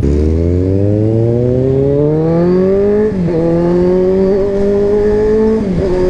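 Kawasaki Z1000 inline-four engine pulling hard under acceleration. The revs climb steadily for about three seconds, then dip briefly at an upshift, climb again more slowly, and dip at a second upshift near the end.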